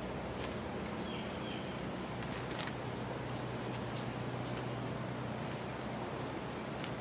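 A small bird gives short, high, falling chirps about once a second, with a pair of lower chirps early on. Steady background hiss and a low hum run beneath them.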